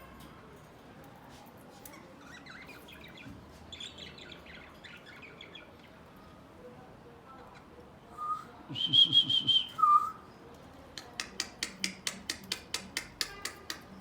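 Pet birds chirping and whistling: scattered chirps, then a loud burst of whistled calls about eight seconds in, followed by a rapid run of sharp chips, about five a second, near the end.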